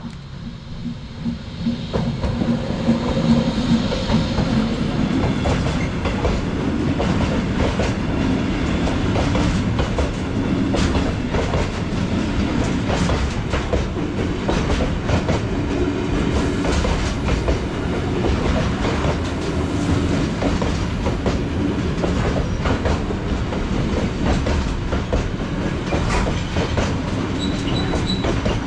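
Freight train passing close by, its wagon wheels clattering rhythmically over the rail joints. The noise builds up over the first few seconds, then stays loud and steady as the wagons roll past.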